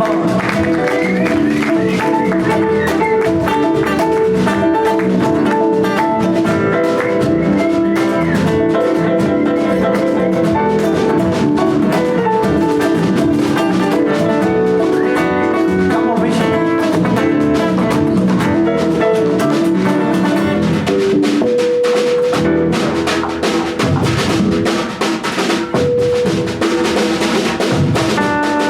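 A live band playing a song, with drum kit and guitar over sustained chords.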